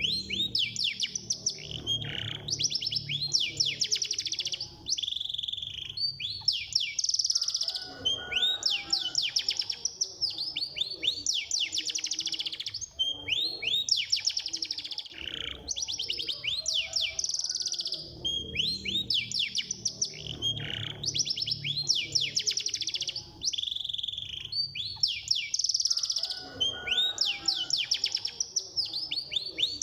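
Domestic canary singing a fast, continuous song of rapid trills, rolls and swooping notes, phrase after phrase with only brief breaks. This is a 'masteran' tutor recording played to prompt other canaries to sing.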